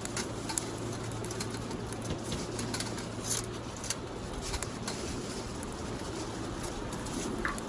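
Wood fire crackling: sparse sharp pops and snaps over a steady low background rumble.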